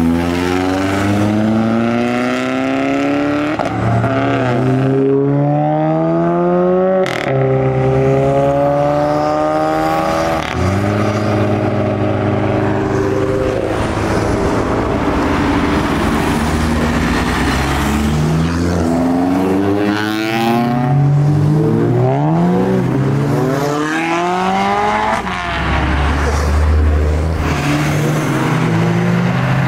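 Modified car engines accelerating hard, the engine note climbing in pitch and dropping back at each gearchange, again and again. There is one sharp crack about seven seconds in.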